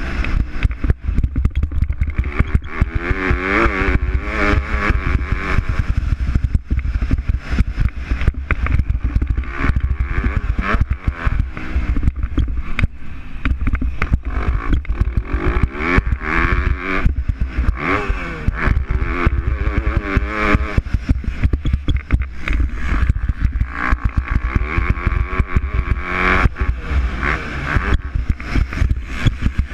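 MX2 motocross bikes racing, their engines revving up and down repeatedly as they accelerate and shift.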